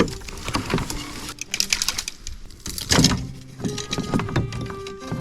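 Handling noise on a kayak: irregular clicks, knocks and rubbing, with the loudest knock about three seconds in.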